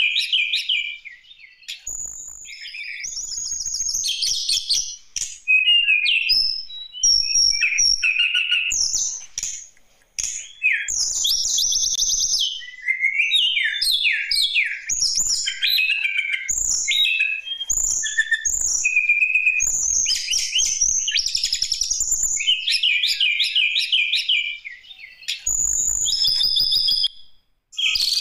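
Tledekan gunung songbird singing a long, varied song of rapid chirps, trills and whistled notes, phrase after phrase with short pauses between.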